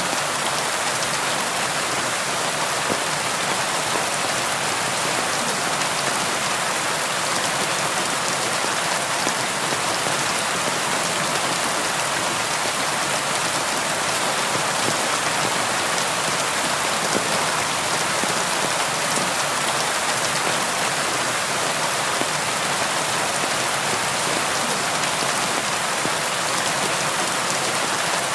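Steady rain falling on a window, an even hiss of many small drops tapping the glass without let-up.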